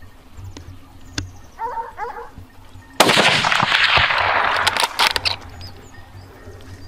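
Hunting gunfire at wild boar: a sudden loud blast about three seconds in that carries on for about two seconds, with a few sharper cracks near its end.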